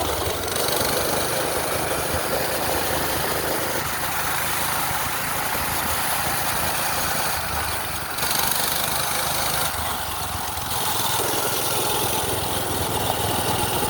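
Minibike's small gasoline engine running steadily while riding, mixed with wind noise.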